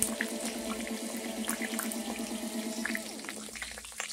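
Pork chunks frying in bubbling hot oil in a nonstick pan: a steady sizzle with scattered small crackles and pops.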